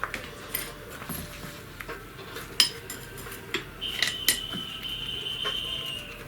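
Metal wrench clinking and tapping on the engine mounting nuts of a walk-behind tractor as they are undone, with a sharp metallic clack about two and a half seconds in. A steady high squeal runs for about two seconds near the end.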